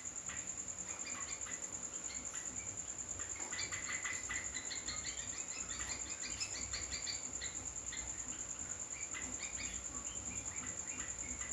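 Yellow-vented bulbul (trucukan) chirping in quick series of short notes, densest for a few seconds in the middle, over a steady high-pitched shrill tone.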